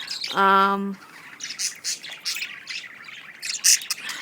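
Budgerigars chirping and warbling in quick, short high chirps, the loudest near the end.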